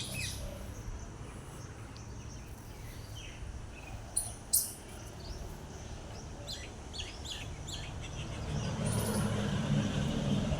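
Birds chirping in short, scattered calls over steady outdoor background noise. Two sharp clicks sound about four seconds in, and a low rumble swells near the end.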